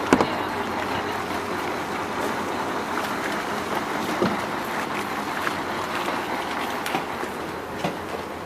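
VR Dm12 diesel railbus running: a steady rumble and hiss with a few sharp knocks, the loudest just at the start.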